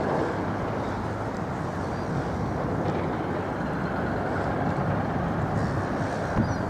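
Steady rumble of road traffic running past, with no single event standing out.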